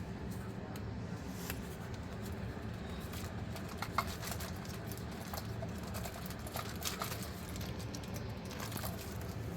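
Scattered light clicks and taps, the sharpest about four seconds in, over a steady low hum.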